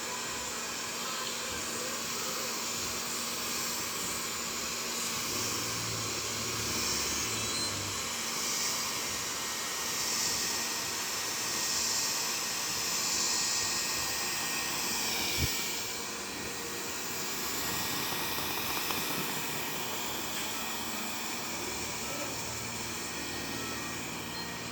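Robot vacuum cleaner running, a steady whir and hiss as it cleans, with a single sharp click about two-thirds of the way through.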